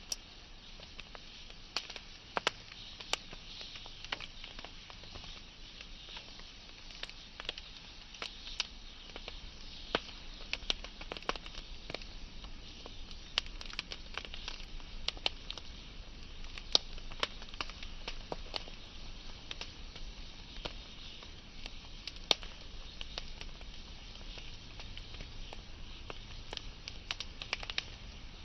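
Wood fire burning: sharp crackles and pops at irregular intervals over a steady hiss, with a few louder pops along the way.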